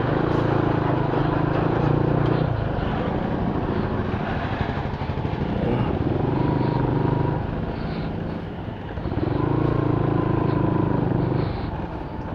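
Motorcycle engine of a cruiser-style bike, heard from the rider's seat while riding slowly. Its note swells and eases with the throttle three times: near the start, about halfway through, and again near the end.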